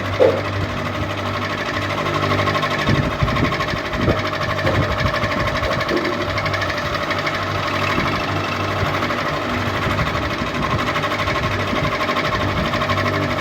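Ceiling fan running steadily: an even whirring hum with a fast flutter, and a few faint knocks a few seconds in.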